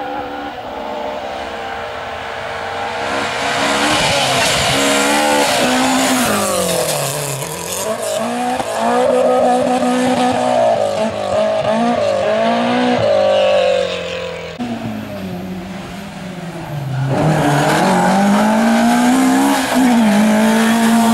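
Rally car engine revving hard, its note climbing and falling again and again through gear changes and lifts off the throttle.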